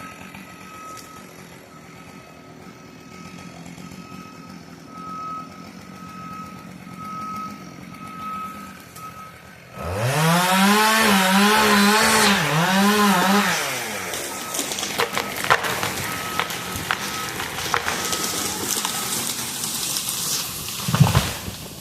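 Skid steer backing up with its reversing alarm beeping faintly and steadily. About ten seconds in, its engine revs up hard and wavers under load for a few seconds, then comes a run of sharp wood cracking and splintering as the leaning tree gives way, ending in a heavy thump near the end.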